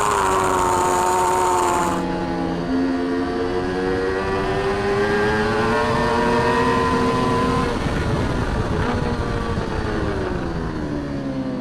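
Racing superbike engine heard onboard at speed. Its pitch falls at first, then rises steadily for several seconds under acceleration, drops about eight seconds in, and falls again near the end as the bike slows.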